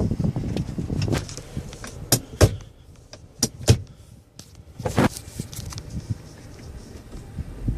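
Inside a 2012 Jeep Wrangler's cabin: a low vehicle rumble for the first second, then several sharp clicks and clunks.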